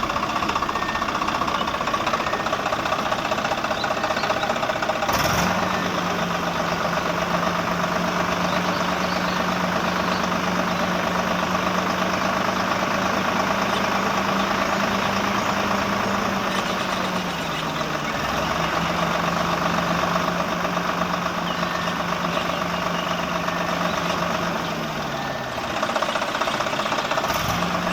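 Small motor running with a steady low hum over a constant mechanical whirr. It switches on with a click about five seconds in. Its pitch sags for a moment partway through, then falls away and stops shortly before the end, followed by another click.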